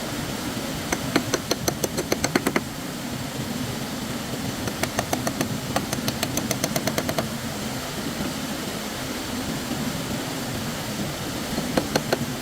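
Quick runs of sharp knocks, several a second, in three bursts, over a steady rushing background of running stream water.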